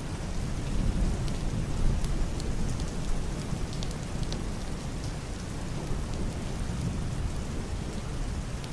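Heavy rain on a wooden roof and glass window, with scattered drops ticking, over a low, muffled thunder rumble that is strongest in the first couple of seconds and then eases to a steady roll.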